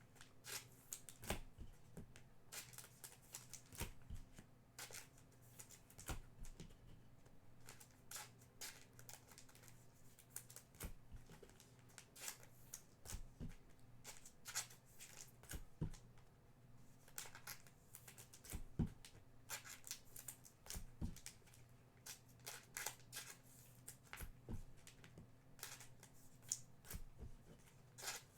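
Topps Merlin Chrome trading cards being handled and sorted by hand: a quiet string of irregular soft clicks, taps and rustles as cards are slid and flipped. A faint steady hum sits underneath.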